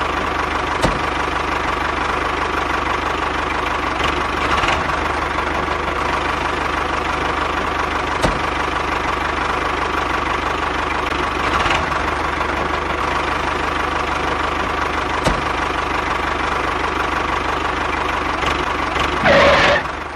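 The small motor of a DIY mini tractor running steadily, a rattly hum with a thin high whine, and a sharp click every few seconds.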